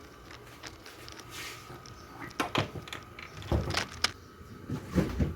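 Plastic refrigerator drawers being worked out of their runners: a string of knocks, scrapes and rattles, busiest in the second half.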